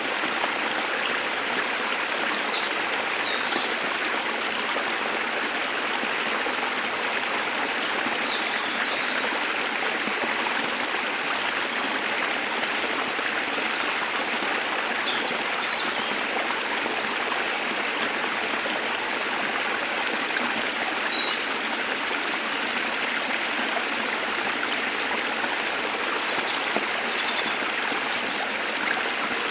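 Waterfall rushing with a steady, even roar, with faint short bird chirps scattered through it.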